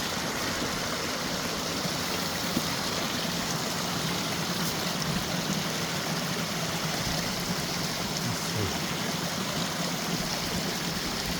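Mountain creek flowing steadily over rocks, an even rushing and trickling of water.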